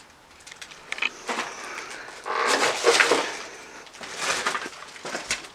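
Footsteps crunching and scraping over rubble and broken debris, in uneven bursts, the loudest about halfway through.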